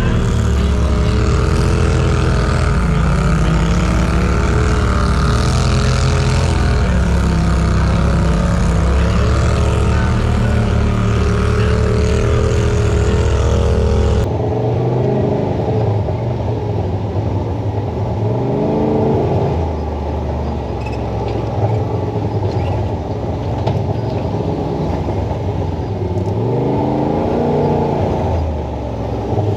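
Side-by-side UTV engine running on a trail under a loud rushing hiss. About halfway through the sound changes abruptly, and the engine then revs up and falls back several times.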